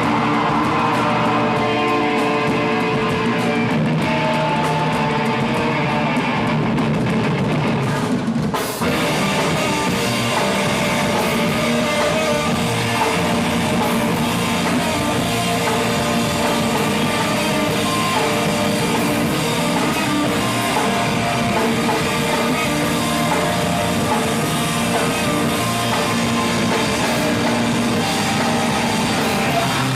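Live rock band playing loud, with electric guitars and a drum kit and no vocals. About eight and a half seconds in the sound drops out briefly, then the full band comes back in with cymbals.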